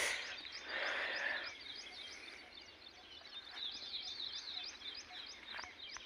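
A small bird chirping rapidly and repeatedly, short high chirps about four a second, faint against outdoor background noise. A brief rush of noise sounds in the first second and a half.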